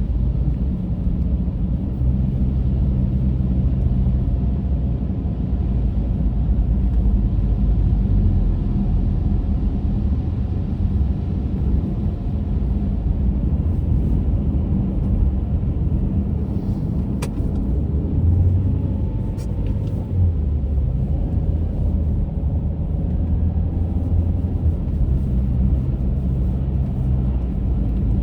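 Car driving at a steady pace: a continuous low rumble of engine and road noise, with two faint clicks about two-thirds of the way through.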